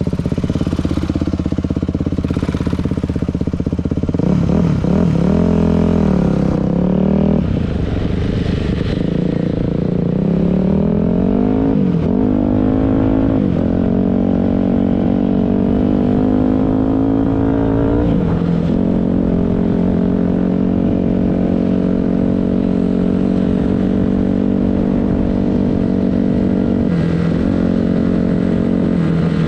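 Dirt bike engine running under way, accelerating through the gears: its pitch climbs and then drops back at each shift several times, and runs steadier in the last part.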